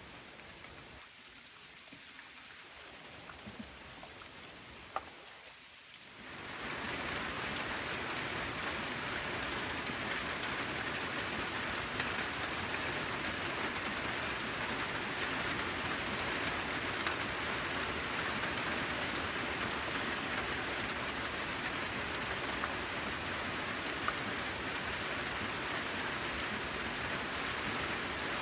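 Faint insect chirring on one steady high pitch, with a few scattered drip ticks, for about six seconds. Then heavy rain comes in abruptly and falls steadily, with the odd louder drop tick.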